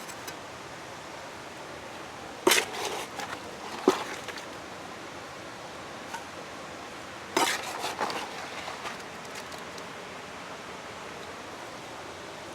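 Stones being knocked and set into a stone foundation, sharp clacks and clinks of stone on stone. A cluster of knocks comes about two and a half seconds in, ending in a single loud knock, and another cluster about seven and a half seconds in.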